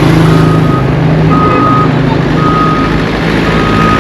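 A road-works vehicle's reversing alarm beeping about once a second, one steady high tone per beep, over the steady running of its engine.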